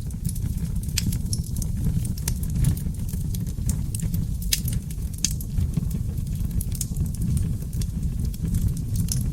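Wood fire crackling and popping in a fireplace: frequent sharp, irregular snaps over a steady low rumble of the flames.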